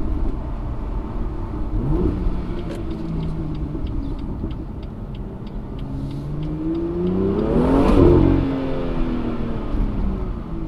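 BMW M2's stock N55 turbocharged straight-six pulling at town speed. The revs rise briefly about two seconds in, then climb again to a loud peak about eight seconds in and drop away.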